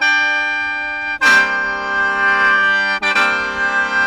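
A khaen, the Isan bamboo free-reed mouth organ, being blown: sustained reedy chords over a steady drone, with a fresh, louder chord struck about a second in.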